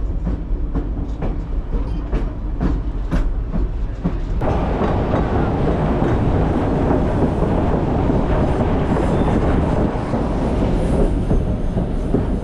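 Railway passenger car in motion: sharp clicks and knocks of the wheels on the track, then about four seconds in a sudden switch to a louder, steady rumble and rattle of the running train.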